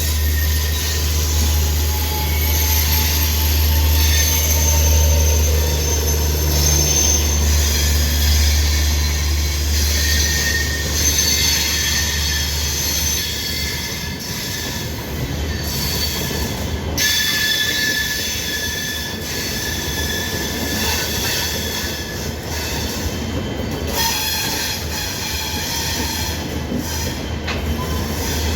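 Double-decker express train rolling slowly into the platform behind an electric locomotive, its wheels and brakes squealing in high, shifting tones as it slows. A strong low drone sits under it and fades out about halfway through.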